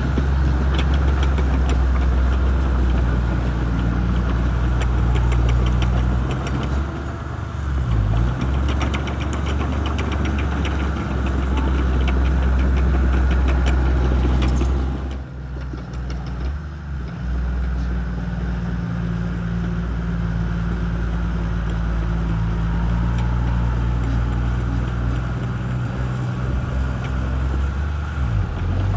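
Shantui crawler bulldozer's diesel engine running steadily with a deep hum, with a fast ticking over the first half. The level dips briefly about halfway through, then the engine runs on.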